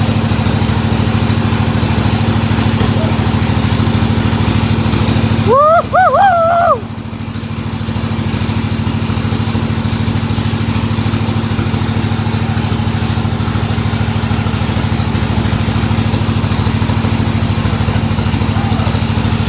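Engine of a powered wood saw running steadily. About six seconds in the sound briefly drops away and a short wavering voice-like call is heard, then the engine comes back up to its steady running.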